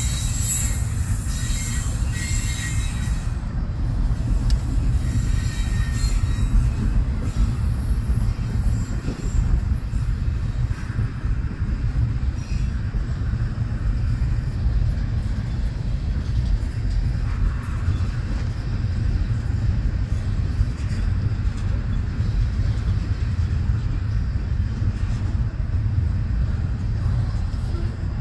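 Double-stack intermodal well cars of a freight train rolling past with a steady low rumble. High-pitched wheel squeal at the start fades out after a few seconds.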